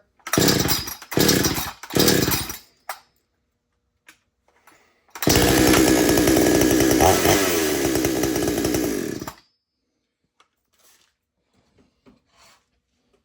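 Two-stroke gas chainsaw being pull-started: three short, loud bursts, then about five seconds in the engine catches and runs for about four seconds before cutting off suddenly.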